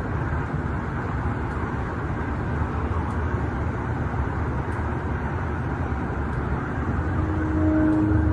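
A steady low rumbling drone, an unexplained outdoor 'weird sound' with no machinery or construction nearby to account for it, with a faint steady hum tone joining about seven seconds in.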